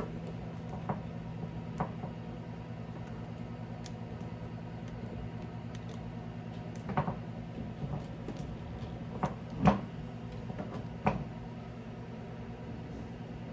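Items being handled while a refrigerator is emptied and reorganized: a scatter of short knocks and clicks, the loudest about two-thirds of the way through, over a steady low hum.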